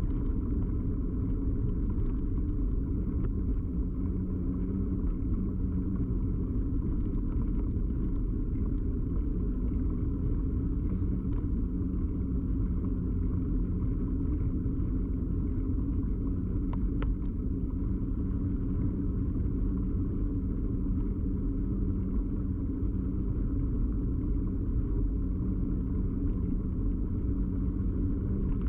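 Steady low rumble of a bicycle ride picked up by a camera fixed to the bike: tyre and frame vibration carried through the mount, with a faint click about two-thirds of the way through.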